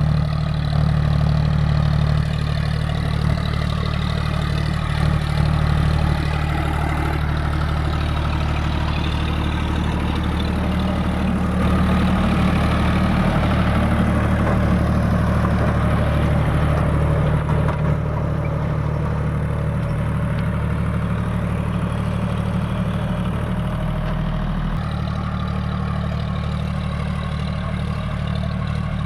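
John Deere 5050D tractor's diesel engine running steadily, its note shifting slightly about twenty-five seconds in.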